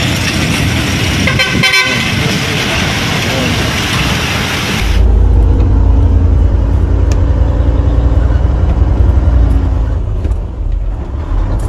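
Loud outdoor noise with a vehicle horn sounding briefly about a second and a half in; about five seconds in it cuts to a heavy low rumble.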